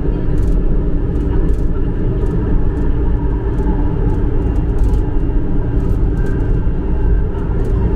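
MRT-3 train running along the line: a steady, loud rumble of wheels on rails, with light irregular clicks.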